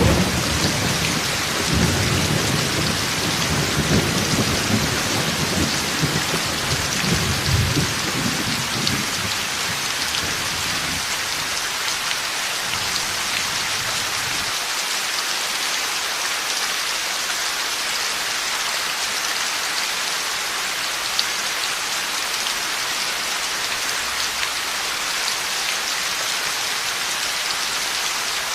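Heavy rain falling steadily in a thunderstorm, with thunder rumbling through the first several seconds and fading out about a third of the way in, leaving only the rain.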